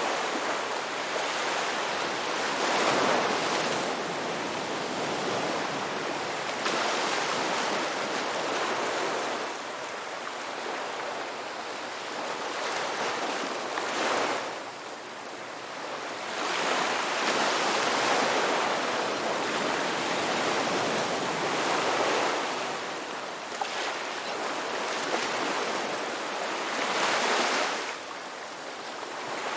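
Ocean waves breaking and washing on a rocky beach, the surf swelling and ebbing every few seconds, with a sharper surge of water about 14 s in and another near the end.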